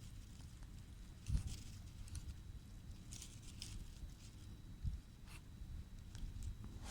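A Shiba Inu's paws scratching and digging at grass and soil, with faint, scattered scratches and rustles.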